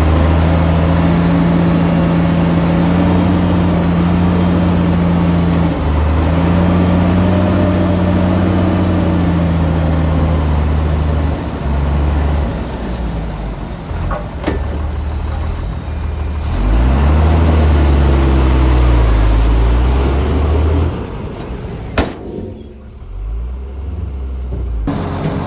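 Heavy diesel engine of earthmoving equipment running and revving, its pitch rising and falling. It eases off about 21 seconds in, and a sharp click follows.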